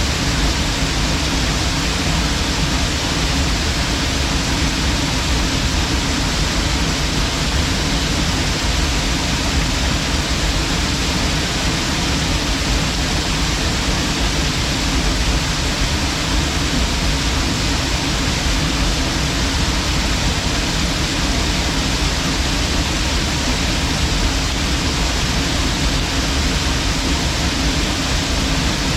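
Waterfall: falling water crashing onto rock and pool in a steady, unbroken rush.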